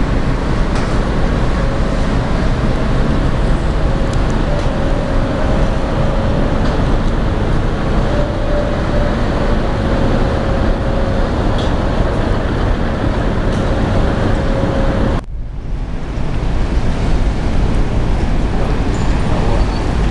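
Steady loud noise aboard a moving cruise ship, with a faint steady hum under it. The sound drops out abruptly for a moment about fifteen seconds in, then carries on as before.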